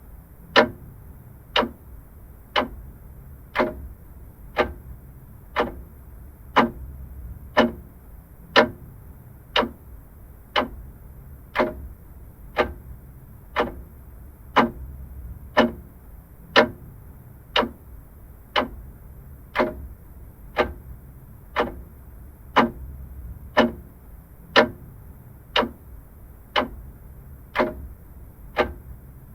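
Vintage mechanical clock ticking steadily at about one tick a second, the strokes alternating a little in loudness like a tick-tock.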